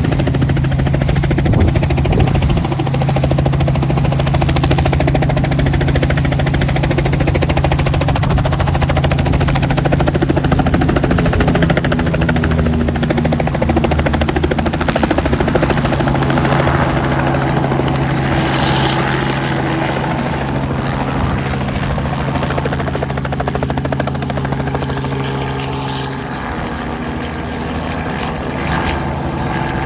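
Helicopter running with its rotor turning, a loud, steady, low hum over a dense noise. It eases slightly in loudness over the second half.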